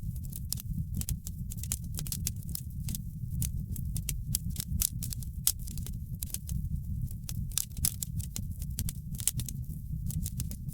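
Wood fire burning in a fireplace: frequent sharp, irregular crackles and pops over a steady low rumble of the flames.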